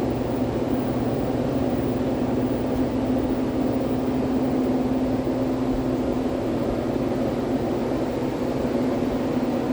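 Steady low mechanical drone with a constant hum: the background machinery and ventilation noise aboard a cruise ship.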